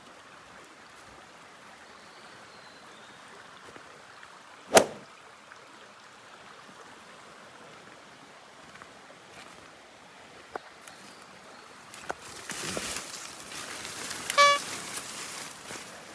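Faint steady outdoor hiss with a single sharp click about five seconds in; from about twelve seconds, louder rustling and a short pitched call-like tone with several overtones near the end.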